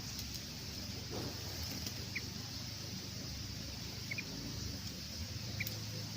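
Steady outdoor hiss with a few short, high chirps about two, four and five and a half seconds in.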